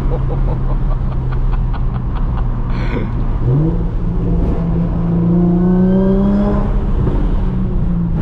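Audi S4 B8.5's supercharged 3.0-litre V6 running through an AWE Touring cat-back exhaust with test pipes, cruising steadily. About three and a half seconds in, the pitch jumps up and climbs as the car accelerates, then eases off again near the end.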